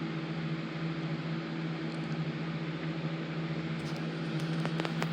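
Steady mechanical hum, a low drone over an even hiss, with a few faint clicks near the end.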